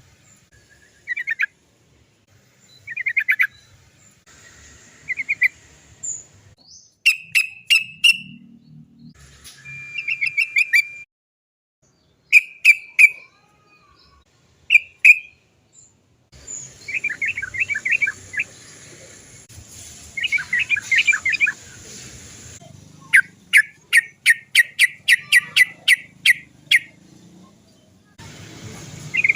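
Yellow-vented bulbul calling: short bubbling chatter phrases and quick runs of sharp "chok-chok-chok" notes, with a fast series of about four notes a second near the end.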